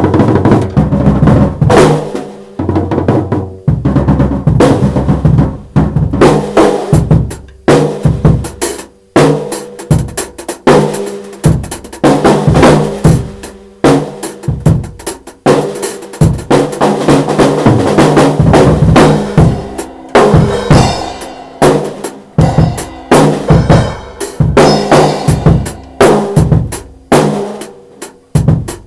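Drum kit being played: a busy groove of bass drum and snare hits with rimshots and rolls.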